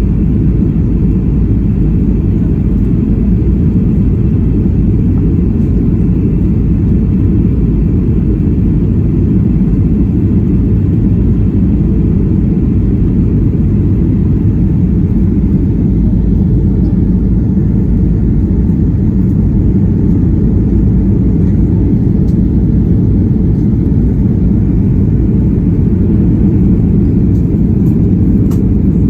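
Steady, loud cabin rumble of a Boeing 737-800 in flight, heard from a seat near the rear: CFM56-7B engine noise and airflow against the fuselage, with the sound concentrated low and unchanging.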